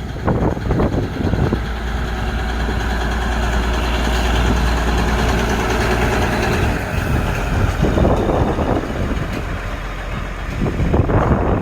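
Indian Railways electric multiple unit local train running, a steady low hum under a broad rumble, which swells briefly about eight seconds in and again near the end.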